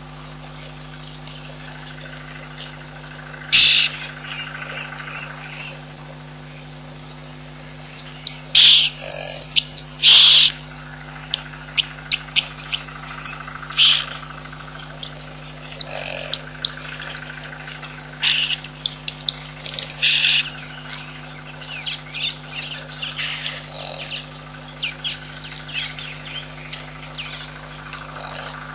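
Birds calling in the bush, with many short, sharp chirps scattered through and a few much louder knocks in the middle. A steady low hum runs underneath.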